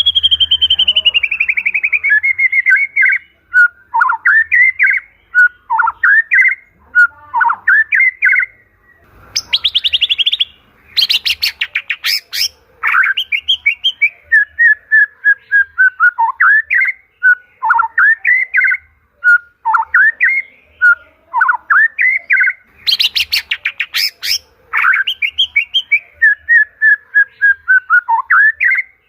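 White-rumped shama (murai batu) singing: a long run of loud, varied whistled phrases that slide up and down. Twice, about eleven and twenty-three seconds in, the phrases break into fast rattling trills.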